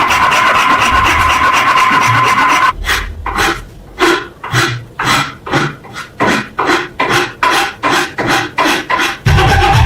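Hand rasping strokes, like filing a workpiece, about two strokes a second. Before them is a few seconds of continuous rasping with a steady whine, and a steady low hum sets in near the end.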